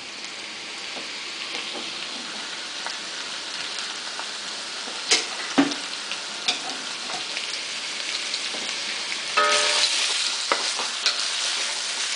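Sliced mushrooms and onion sizzling in oil in a stainless steel wok over high heat. The sizzle grows steadily louder, with a few sharp pops midway and a louder burst about three-quarters of the way through.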